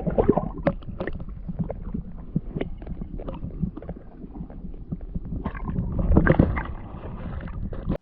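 Wind rumbling on the microphone, with scattered small knocks and water-like noises. It swells louder about six seconds in.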